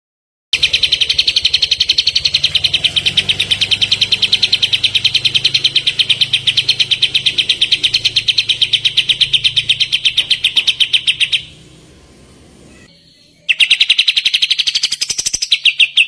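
Kapas tembak songbird singing its rapid 'tembakan' trill: a long, even run of quick, high repeated notes. The trill breaks off after about eleven seconds and starts again about two seconds later.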